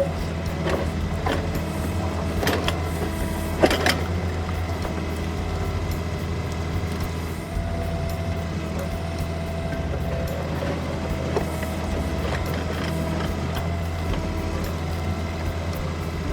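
Kioti CK3510SE compact tractor's diesel engine running steadily under the work of a KB2475 backhoe digging a ditch. Several sharp knocks come in the first four seconds, the loudest just under four seconds in.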